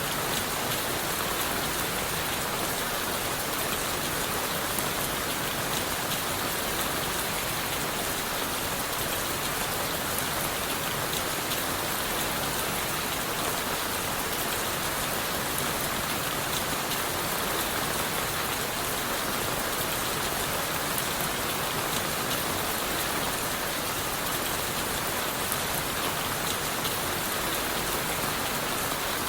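Steady rain falling on leaves, wood and the forest floor, a dense even hiss with scattered individual drop ticks.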